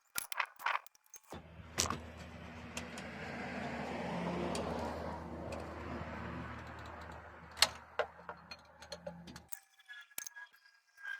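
Hand tools clinking on metal under a car's hood, with sharp clicks as a 14 mm socket is worked onto the alternator's bottom bolt to break it loose. A steady low hum and rushing noise starts about a second in, swells in the middle, and cuts off abruptly near the end.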